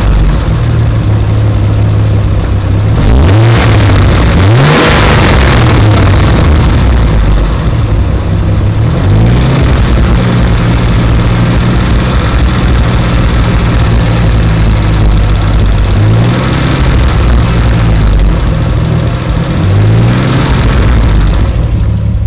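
Ford Barra 240 turbocharged inline-six idling and briefly revved several times, rising and falling in pitch about three to five seconds in, around nine, around sixteen and near twenty seconds. The engine has a rough idle and a ticking that the owner traces to low down, loudest under the car near the driver's door.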